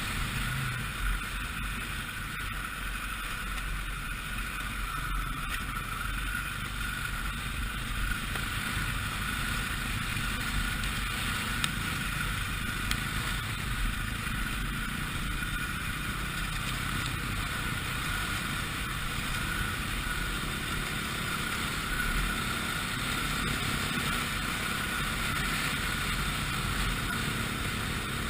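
Four-stroke dirt bike engine running steadily while being ridden.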